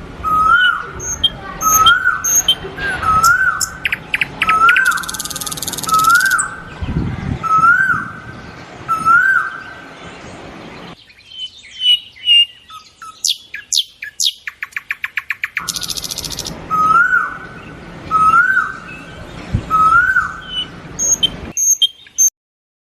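Birds singing and chirping: one bird repeats a short rising call about once a second, with higher chirps and a fast trill among them. The sound stops suddenly near the end.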